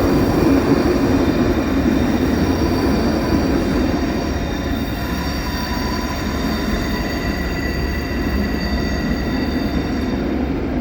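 Train moving through the station: a steady rumble with thin, high wheel-squeal tones above it, slowly getting quieter.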